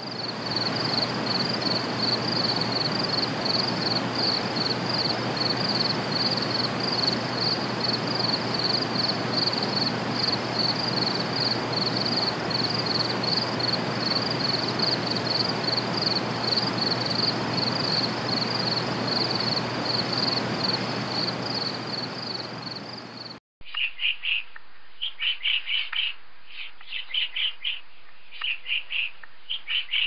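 Cricket chirping: a fast, even train of high chirps over a steady background hiss. Near the end it cuts off abruptly, and short clusters of sharp bird calls follow.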